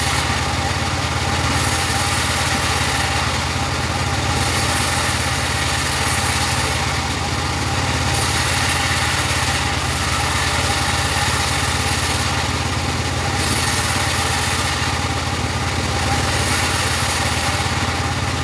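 Portable bandsaw sawmill running steadily with an engine-like hum, while a high hiss rises and falls every couple of seconds, as of the blade working through teak.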